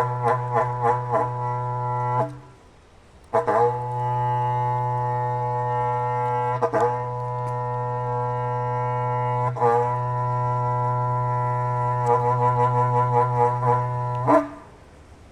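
Berrante, a Brazilian cattle horn, blown as a cattle call: long held notes with quick rhythmic warbles at the start and again near the end. There is a short break about two seconds in, and the horn stops about a second before the end.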